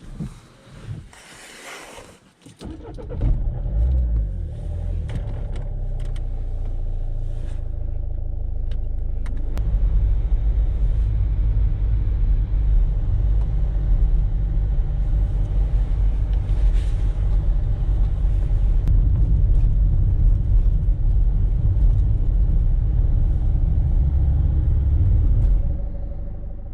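A few clicks, then a car engine, the Citroën C8's, starts about three seconds in and runs with a steady low rumble. It grows louder about ten seconds in and fades out near the end.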